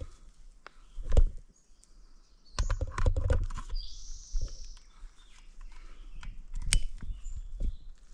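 Footsteps on dry, rocky ground: irregular crunches and sharp clicks, with a denser scuffle about three seconds in.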